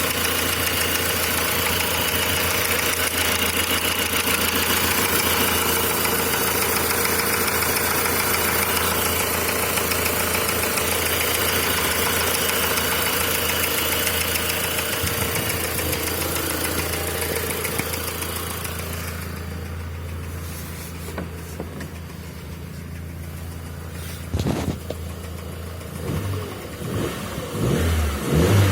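Volkswagen Passat B5 engine idling cold with the knock that shows up when it is cold. About two-thirds of the way in the sound turns duller and quieter, and several thumps follow, the loudest near the end.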